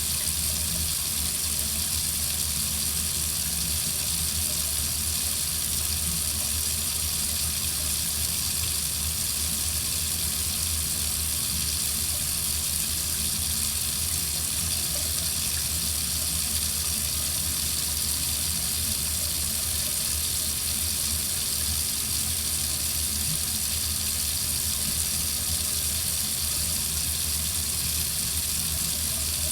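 Water running steadily from a faucet, an even, unbroken rush.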